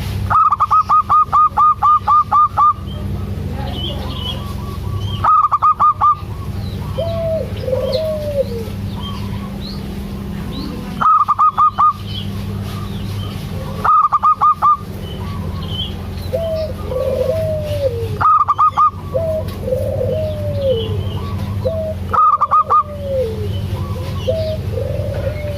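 Zebra doves (perkutut) singing: loud bursts of quick, evenly spaced staccato coos repeat every few seconds, the first about two and a half seconds long and the rest shorter. Softer, curved coos fall between them, over a steady low hum.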